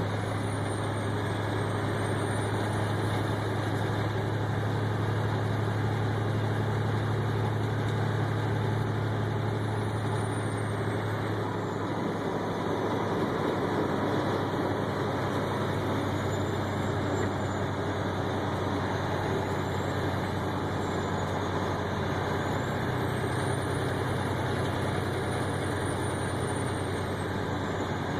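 Steady engine drone and road noise inside a vehicle's cab while driving on a snowy highway, with a low hum that eases slightly about twelve seconds in.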